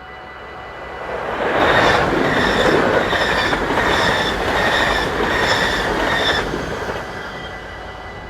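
A train passing over a Dutch level crossing, its wheels clattering in a steady rhythm about twice a second. It swells in about a second and a half in and dies away near the end. The crossing's warning bells keep ringing underneath.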